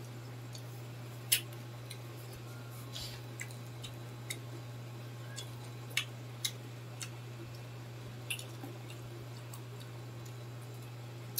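Close-up chewing of crispy deep-fried pork intestine and pork lung, with sharp crunches every second or so over a steady low hum.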